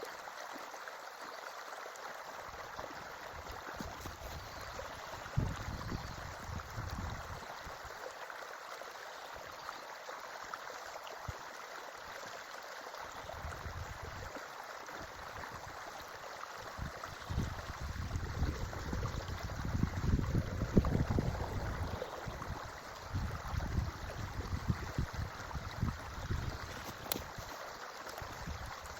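Creek water running steadily, with irregular low rumbling and soft knocks coming and going, heaviest through the second half.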